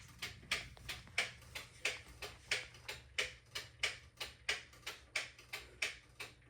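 Steady mechanical ticking, about three ticks a second in an alternating strong-weak pattern, over a faint low hum.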